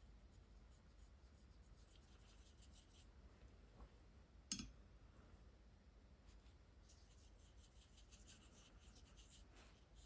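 Faint, soft scratching of a water-based brush-tip marker stroking across watercolour paper in short runs, with one sharp click about halfway through.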